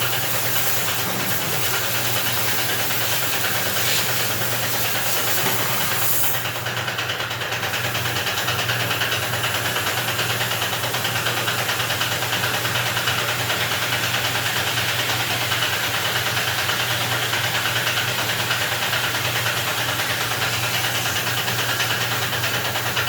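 A pressure machine's motor running steadily with a loud hiss of pressurised flow, as pressure is put through a tractor radiator during servicing. The hiss briefly thins about six seconds in.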